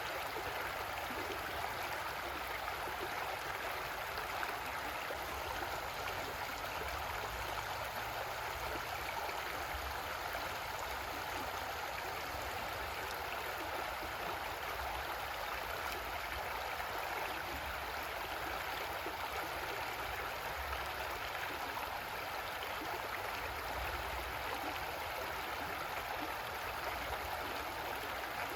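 Creek water running steadily, a constant even rushing.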